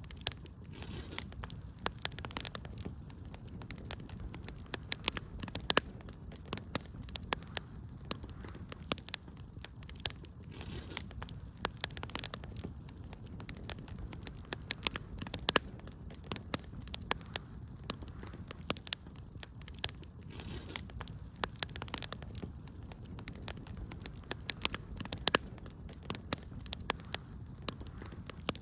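Wood fire in a fireplace crackling: frequent sharp, irregular pops and snaps over a steady low rush of the flames.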